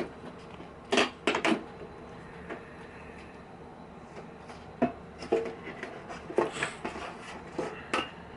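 Handling noise from a disassembled LED TV: scattered clicks, taps and light clatter of its plastic and metal parts, coming in small clusters.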